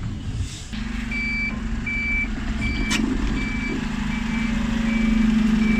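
Dennis Elite 6 bin lorry's reversing alarm beeping repeatedly over its running diesel engine. The engine hum grows a little louder toward the end, and there is one sharp knock about three seconds in.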